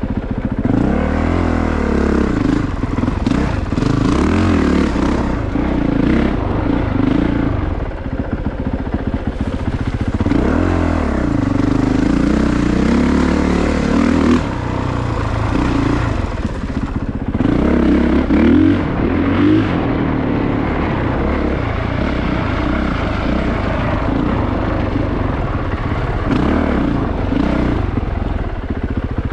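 A Honda CRF450RX's single-cylinder four-stroke engine revs up and down again and again under throttle as the dirt bike is ridden over rough trail, with clattering from the bike over the rough ground.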